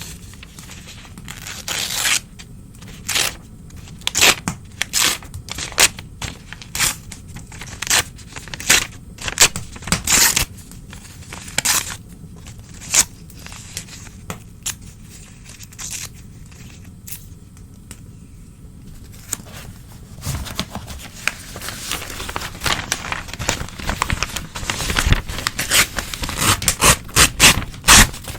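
Old newspaper torn by hand in a string of short rips, a few per second. Near the end the tearing turns into denser, continuous rustling and ripping.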